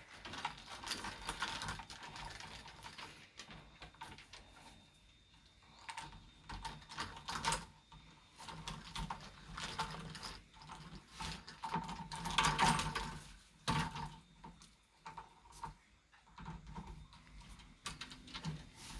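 Irregular clicks, taps and rattles of a pet bird working at a toy with its beak and feet, with a louder flurry about two-thirds of the way through.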